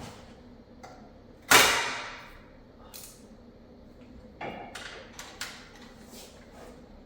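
Workshop clatter of tools against metal: one loud clank about a second and a half in that rings briefly, then several lighter clicks and knocks.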